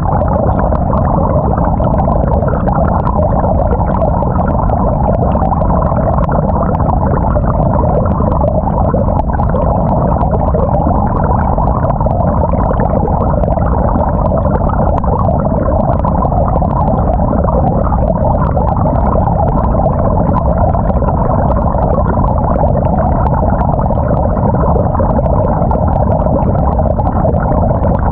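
Water and laundry churning steadily in a 2018 GE GTW220ACKWW top-loading washing machine, heard from a camera mounted on the agitator, so the sound is loud and muffled, as if underwater.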